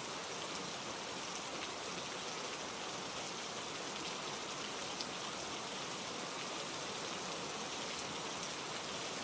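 Steady rainfall, an even hiss of rain with the odd soft drop.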